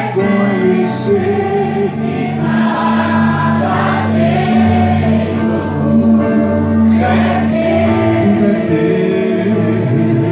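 Gospel worship song: a choir of voices singing long held notes over sustained keyboard-like chords, with no words picked out.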